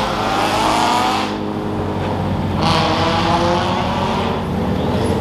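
Car engines accelerating, two cars one after the other, each with a sliding engine note, over a steady nearby engine idle.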